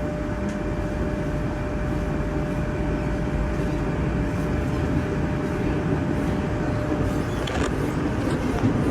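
Moscow Metro train, a Moskva-2019 set, running through the tunnel, heard inside the car: a steady rumble of wheels and motors with a thin steady whine that fades out about six seconds in. A short rattle sounds near the end.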